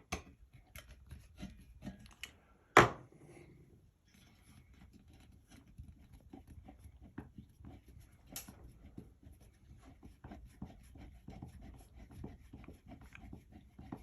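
Small clicks, taps and rustling of hands handling ceiling-fan hardware and parts, with one loud sharp knock about three seconds in.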